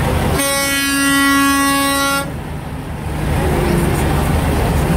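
A truck's air horn sounding one steady, unwavering blast of about two seconds, starting about half a second in, from the Coca-Cola truck.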